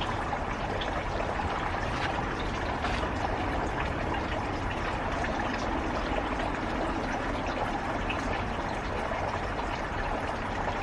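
Steady rushing noise of running water, with a few faint light clicks.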